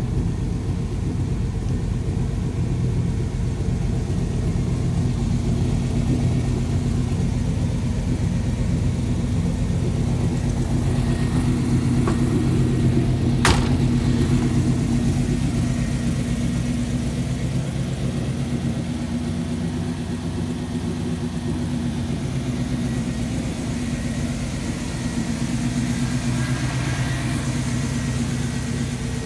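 1964 Chevrolet Impala convertible's engine idling steadily, with one sharp click about halfway through.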